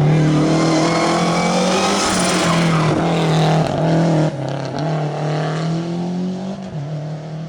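Rally car engine running at high revs, its pitch rising and falling through gear changes. About four seconds in the sound drops sharply in level and stays lower.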